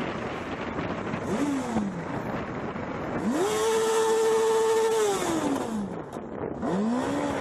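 Car engine revved three times over a steady road noise: a short rev, then a long one that climbs, holds for about two seconds and falls away with a rushing hiss, then another short rev near the end.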